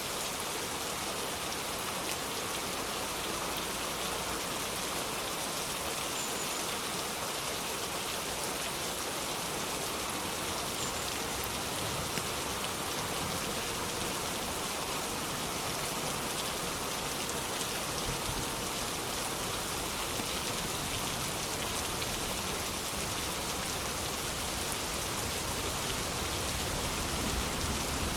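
Steady rain falling, an even hiss of many drops hitting a surface, with no thunder.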